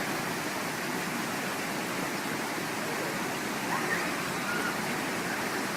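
Rushing river water, a steady even rush. A few faint short sliding tones come about four seconds in.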